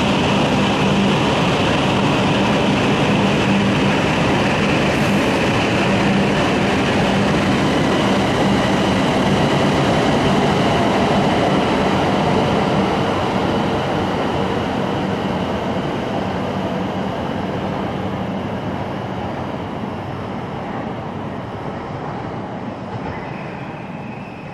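Shinkansen bullet train running through the station, a loud steady rush with a low hum, which fades gradually over the second half as the train draws away.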